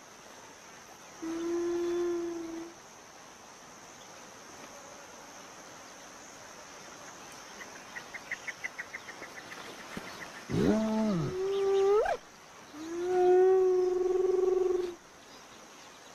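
Spotted hyenas calling: a drawn-out call held at one pitch, later an arching call that ends in a steep rising whoop, then another long even-pitched call.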